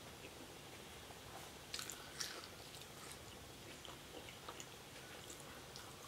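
Faint chewing and mouth sounds of a person eating loaded fries, with a few soft clicks, the clearest around two seconds in.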